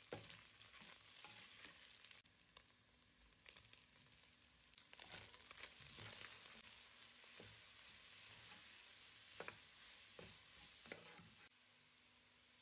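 Meat strips sizzling in hot oil in a kazan, with a spatula scraping and clicking against the pot as they are stirred. The sizzle grows louder about five seconds in, as sliced onions go in, and dies down near the end.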